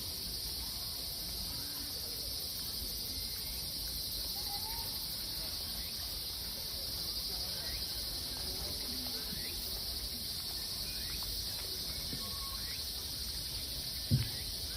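Steady high-pitched chorus of insects droning without pause, with faint scattered chirps, and one brief low thump near the end.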